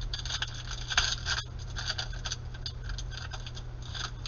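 Trading cards being flicked and slid against one another as a stack is sorted by hand, a run of quick dry rustles and flicks. A steady low electrical hum runs underneath.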